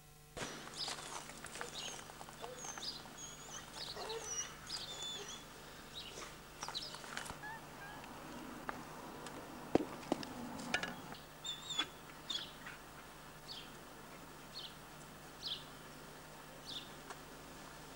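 Garden birds chirping and twittering, with a single bird repeating a short high call about once a second in the last third. A couple of sharp knocks about halfway are the loudest sounds.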